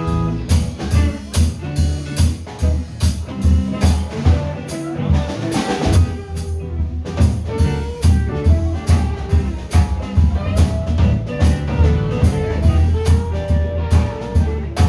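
A live band playing an upbeat song with a drum kit keeping a steady beat over bass, with no singing. The drum hits drop out briefly about six seconds in.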